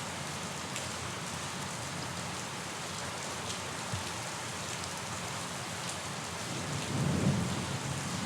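Steady rain falling, with a low rumble of thunder swelling about seven seconds in.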